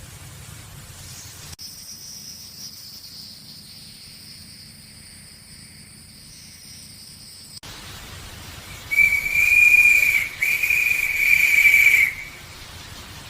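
A loud, steady, high-pitched whistle with hiss, sounding in two long stretches with a short break between them, starting about nine seconds in.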